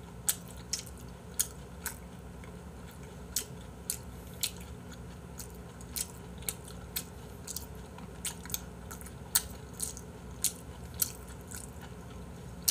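A person chewing raw beef close to the microphone: short, wet mouth clicks and smacks, irregular, about one or two a second.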